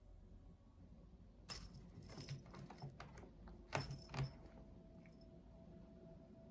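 Light jangling clatter: a cluster of sharp clicks and knocks about a second and a half in, then a louder group of two or three knocks around four seconds in.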